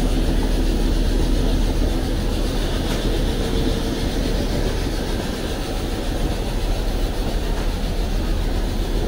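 Steady low rumble of a train beside a railway platform.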